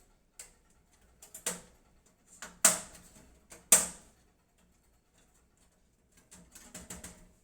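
Hard parts being handled and set down: several sharp knocks, the loudest about two and a half and three and a half seconds in, then a quick run of light clicks near the end.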